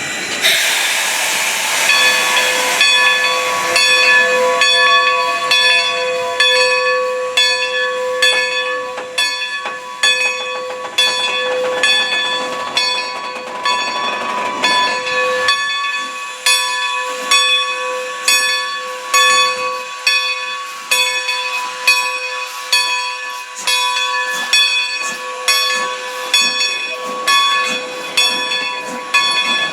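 Steam locomotive venting a loud hiss of steam for the first couple of seconds, then its bell ringing steadily, struck roughly once a second.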